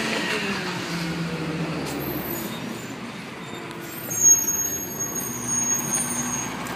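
Garbage truck running, its engine note falling away, with a sudden loud sound about four seconds in followed by a high thin whine lasting about two seconds.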